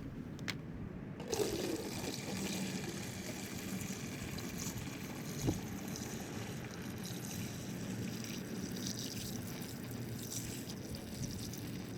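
Engine coolant trickling and splashing steadily, starting about a second in, with one short knock about halfway through.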